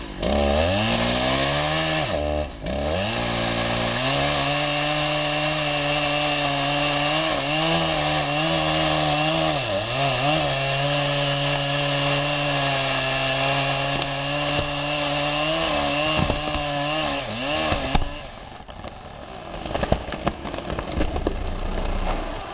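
Husqvarna 3120 XP two-stroke chainsaw revving up, then running at high speed with its pitch dipping and wavering as the bar works through the wood. It stops near the end, and scattered cracks and knocks follow.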